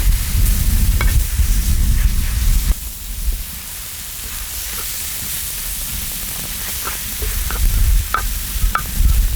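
Small octopus and kimchi sizzling as they stir-fry on a cast-iron cauldron lid (sotttukkeong), with a spatula clicking against the lid now and then. A low rumble is loudest for the first three seconds or so and again near the end.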